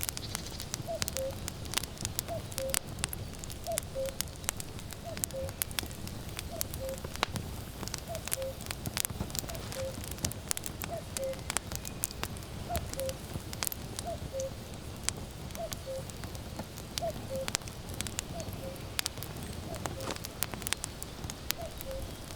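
Firewood crackling and popping with many sharp snaps, while a common cuckoo calls its two-note falling "cuck-oo" over and over, about once every second and a half.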